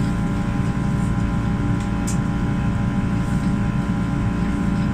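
Steady cabin noise of a Boeing 737-800: a constant rush of ventilation air and low rumble with a hum of several fixed tones, and a few light clicks.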